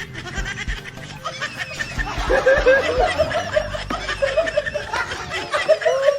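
Several people laughing together, growing louder and denser from about two seconds in.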